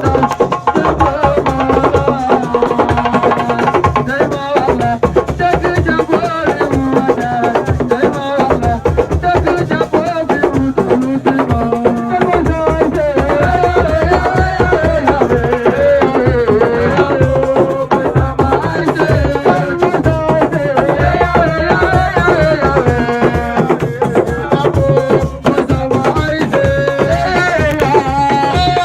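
Senegalese assiko music: fast, dense drumming with rattles under a wavering melody line.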